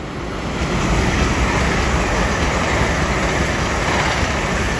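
LNER Class 801 Azuma electric train passing through the station at speed: a steady roar of wheels on rail and rushing air that builds over the first second.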